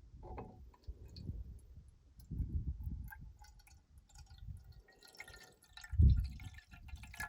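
Water dripping and splashing as rice cakes are put to soak in a bowl, with small clicks and knocks of handling, and a dull thump, the loudest sound, about six seconds in.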